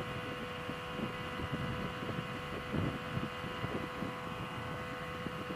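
Yamaha R6 sport bike's inline-four engine running at a steady, easy cruise, with wind noise over the rush.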